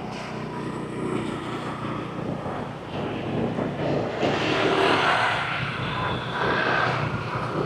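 Motor scooter ridden through street traffic: a steady engine drone with road and traffic noise, growing louder about four seconds in.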